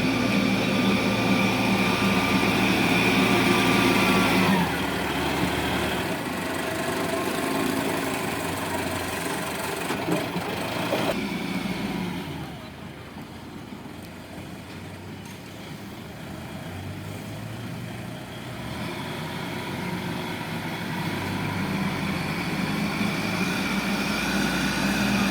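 Engine of sand-loading machinery running at high revs, then dropping to a lower speed about four and a half seconds in. It stays quieter through the middle and builds up again near the end.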